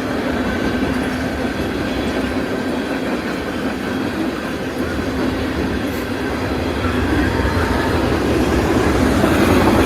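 Freight train cars rolling past: steady rumble and clatter of steel wheels on the rails, growing a little louder toward the end.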